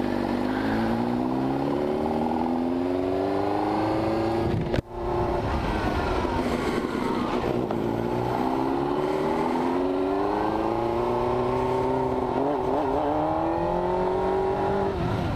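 Motorcycle engine accelerating through the gears, its pitch rising in several pulls and falling back between them as it shifts. There is a brief cut-out about five seconds in.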